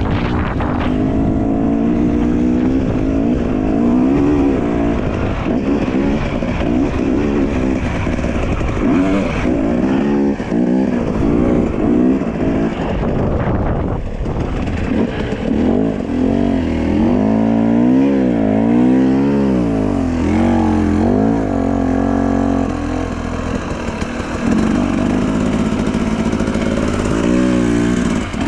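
Dirt bike engine running under load while riding, its revs rising and falling again and again through the throttle and gear changes, with rushing wind noise.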